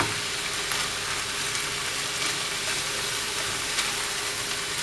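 Stir-fry of boiled noodles, chicken, carrot, capsicum and cabbage sizzling in a small pan while a silicone spatula stirs it. A few light knocks of the spatula against the pan come through the steady sizzle.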